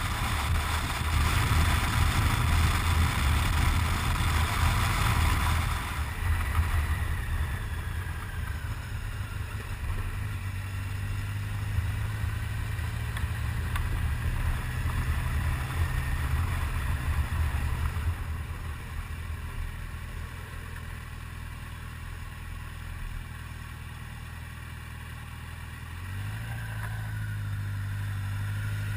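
Motorcycle engine running at road speed with wind noise on the microphone, the wind louder for the first six seconds; the engine note eases off for a while and picks up again near the end.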